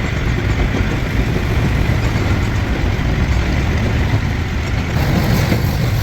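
Heavy diesel engine running steadily at idle, a continuous low rumble.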